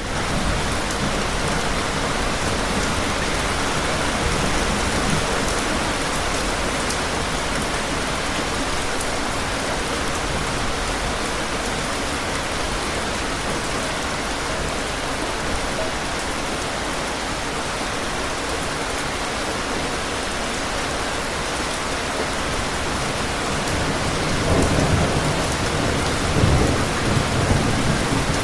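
Steady, heavy rain pattering down, with low rolling thunder rumbling in near the end.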